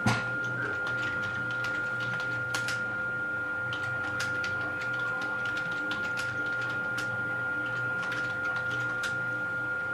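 Steady background hiss and electrical hum with two constant tones, with a sharp click at the start and faint scattered clicks through it.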